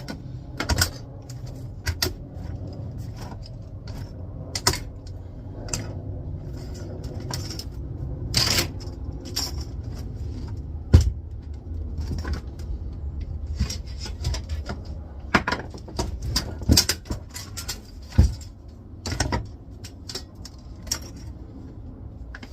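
Irregular metallic clinks, taps and knocks of hand tools and sheet-steel parts being handled while a flatscreen monitor is taken apart to free its steel back plate.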